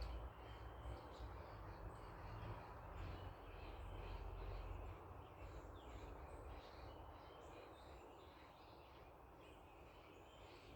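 Faint outdoor ambience: distant birds chirping in short scattered calls, over a low rumble that fades about halfway through.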